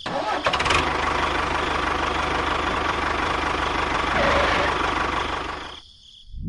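Small electric motor and gear train of a homemade model tractor running steadily with a rapid rattling buzz, swelling slightly and then fading out near the end.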